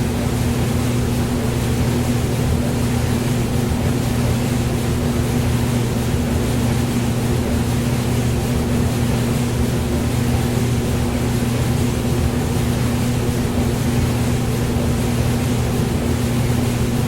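Hair dryer running steadily, a constant hiss of blown air over a low, even motor hum.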